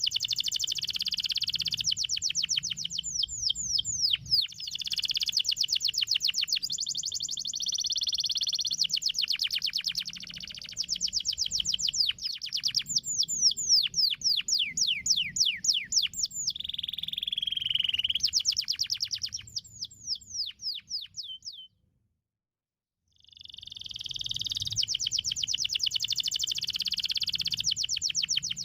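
Domestic canary singing long, fast trills and rolls of rapidly repeated notes, some sweeping downward in pitch, with a low background hum. The song cuts off abruptly for about a second and a half near three-quarters of the way through, then resumes.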